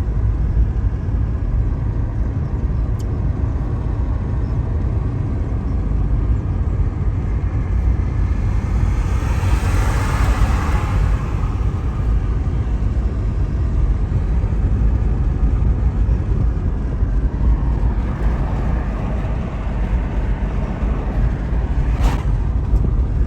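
Steady road and engine noise of a moving car, heard from inside, with a rushing swell about ten seconds in and a sharp click near the end.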